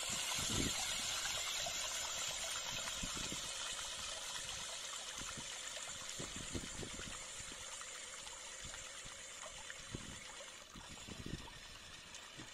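Running water trickling steadily, slowly fading.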